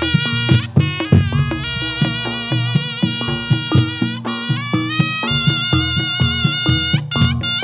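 Jathilan dance accompaniment: a sustained, reedy lead melody sliding between notes over steady drumming.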